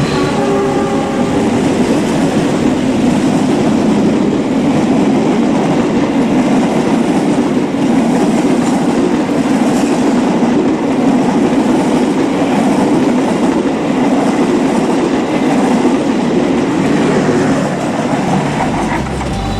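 A train passing close by: a steady rumble and clatter of wheels on the rails, easing slightly near the end.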